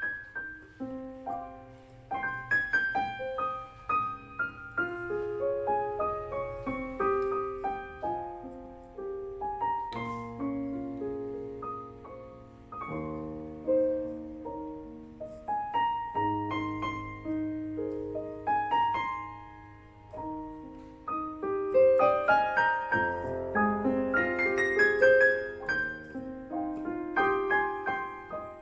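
Casio CT-S1 portable keyboard played with a piano tone: a flowing melody of single notes over lower held notes and chords, fuller and louder near the end.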